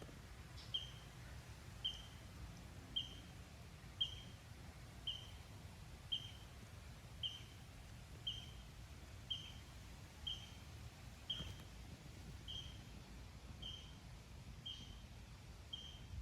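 A bird calling one short, high chirp over and over, evenly about once a second, over faint outdoor background noise.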